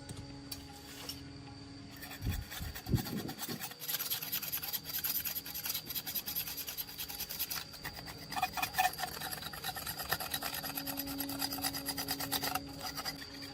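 Hand tool rasping rapidly back and forth on a metal engine part, as in filing or scrubbing off rust, starting with a couple of knocks about two seconds in and stopping abruptly near the end.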